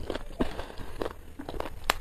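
A person chewing food with the mouth closed, close to the microphone: scattered soft, wet mouth clicks and smacks, with one sharper click near the end.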